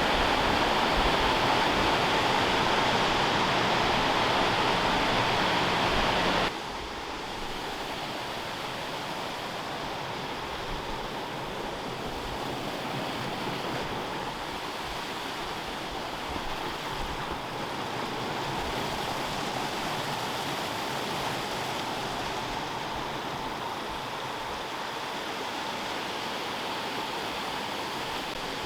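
Steady rushing of a waterfall, the water pouring continuously. About six seconds in the level drops suddenly and the rush goes on, quieter and thinner in the low end.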